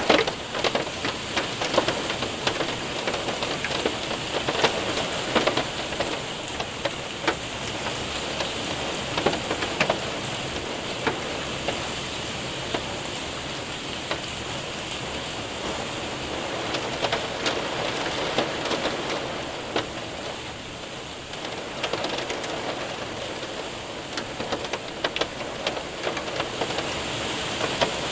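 Hail and heavy rain hitting a window and roof: a steady hiss of rain with many sharp ticks and clicks of hailstones, thinning out for a while in the middle and picking up again near the end.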